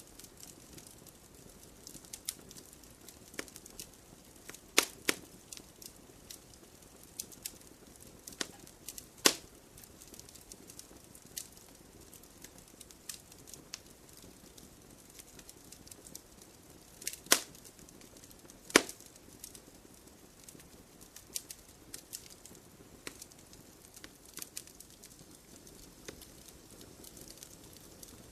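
Wood fire crackling: a steady scatter of small snaps and pops over a faint low hiss, with a few louder pops about 5, 9, 17 and 19 seconds in.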